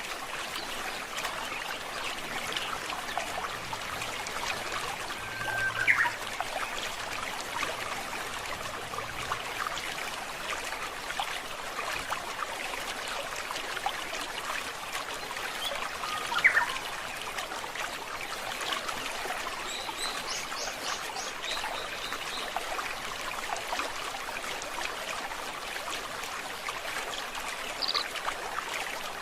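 Shallow stream trickling and babbling steadily over stones, with a few short bird calls: two sharp upward-sweeping calls, and a quick run of high notes about two-thirds of the way through.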